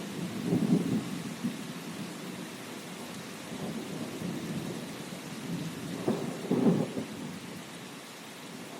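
Steady rainfall hissing, with low thunder rumbles that swell twice: about half a second in and again around six to seven seconds in.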